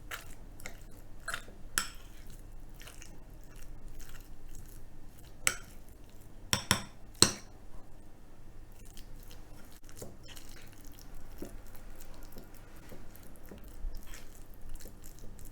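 A thick Korean bean-paste and chili-paste dipping sauce being stirred in a small bowl with a utensil, with scattered clinks against the bowl, the sharpest a quick few about seven seconds in.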